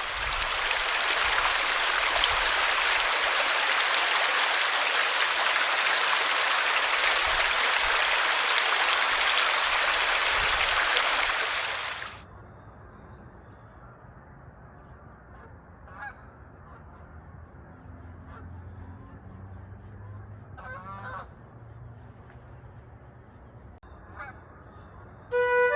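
A flock of geese honking: a loud, dense wash of many calls for about twelve seconds, which then drops suddenly to a quieter stretch with a few separate honks.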